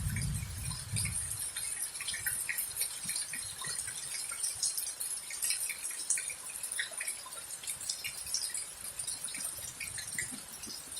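Rain falling and dripping during a thunderstorm: a steady hiss with many small, scattered drop taps. A low rumble dies away in the first second or so.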